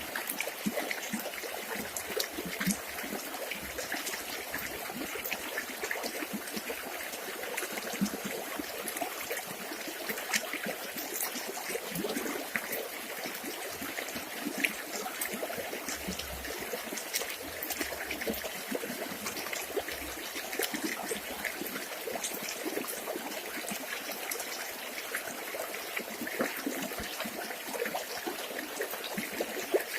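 Shallow river water running and trickling over stones, a steady splashing babble with many small droplet ticks.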